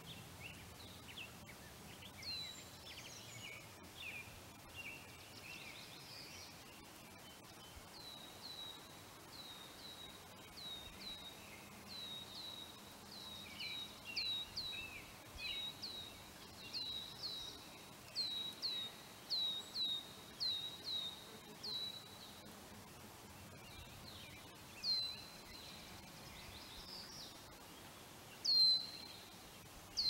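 Songbird calling: a long string of short, high chirps, each sliding down in pitch, often in quick pairs, with scattered twittering early on and a louder single chirp near the end. Beneath it is the faint steady hiss of a flowing stream.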